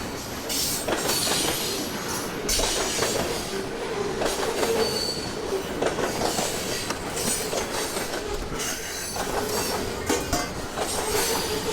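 Scrap metal clanking and scraping as junk is dug through in a dumpster, with many short knocks over a steady, wavering squeal.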